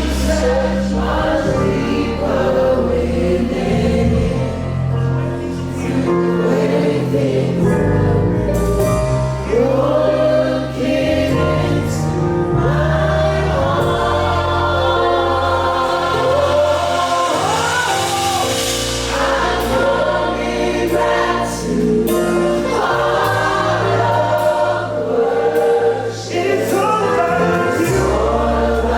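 Live gospel worship music: a choir or congregation singing over a band with sustained bass and keyboard.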